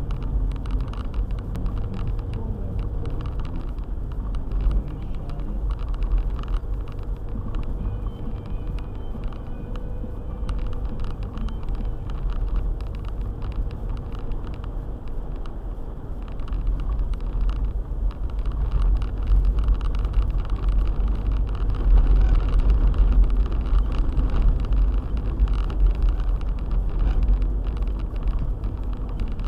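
Four-wheel-drive car driving on a winter road, a steady low rumble of engine and tyres that grows a little louder about two-thirds of the way through.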